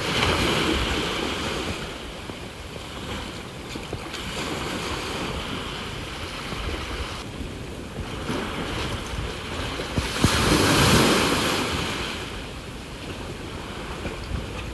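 Sea waves washing onto the shore in surges every few seconds, the biggest about ten seconds in, with a low rumble of wind on the microphone underneath.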